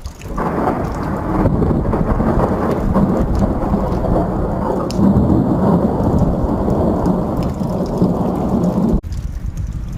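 Thunder from a lightning strike: a long, loud rolling rumble that starts suddenly and runs for about nine seconds, then cuts off abruptly near the end.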